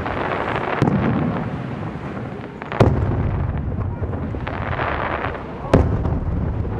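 Aerial firework shells bursting overhead. There is a smaller bang about a second in, then two loud booms about three seconds apart, near three and six seconds in. Each is followed by a long rolling echo.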